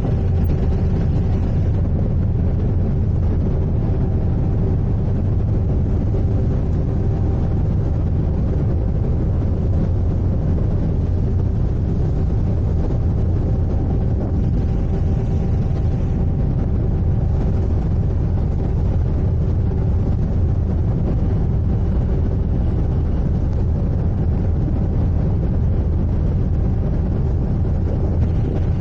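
Sightseeing icebreaker's engines running, a steady low rumble with a faint constant hum above it.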